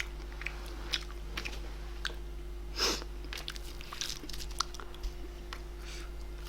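Close-miked chewing of grilled bulgogi: scattered soft mouth clicks and smacks, one fuller burst about three seconds in, over a faint steady hum.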